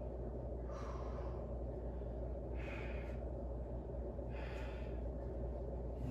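A man breathing hard from exertion during a workout: three loud breaths, about two seconds apart, over a steady low hum.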